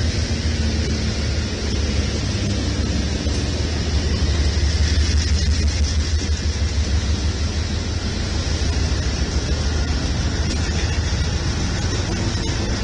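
Freight train rolling past at speed: a steady low rumble of cars on the rails with an even hiss over it.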